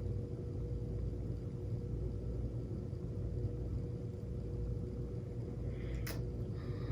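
Steady low background rumble with a faint steady hum, and a single sharp click near the end.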